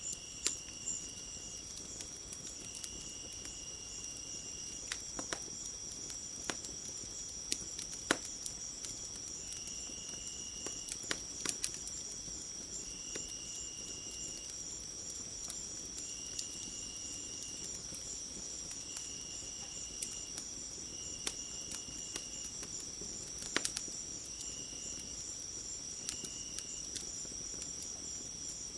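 Crickets and other insects trilling steadily in a high, fast-pulsing chorus, with a lower insect call in short bursts of about a second every few seconds. Scattered sharp pops and crackles from a wood fire sound over it, with the loudest pops about eight seconds in and near the two-thirds mark.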